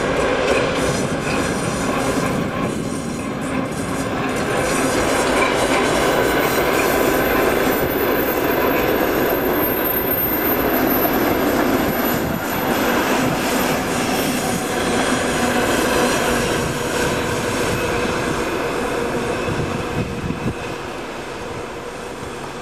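Passenger train with ČME3 diesel locomotives passing: the coaches' wheels rumble and clatter along the rails, with a thin high wheel squeal through the middle. The sound eases off near the end as the rear locomotive goes by.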